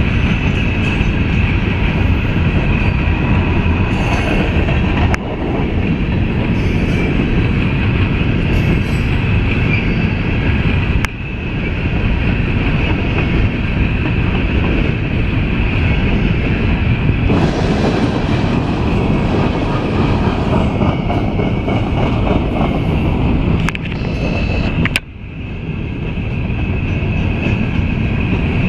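CSX coal train's cars rolling steadily past, a continuous heavy rumble with a high wheel squeal running through it. The sound dips abruptly three times.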